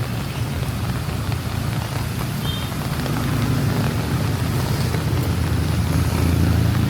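A motor vehicle's engine running close by on a wet street, growing louder about halfway through as it nears, over steady rain hiss.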